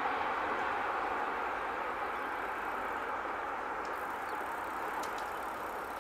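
Electric multiple unit, a Stadler Flirt3 (ED160) intercity train, rolling away along the line: a steady rushing wheel-on-rail noise that slowly fades.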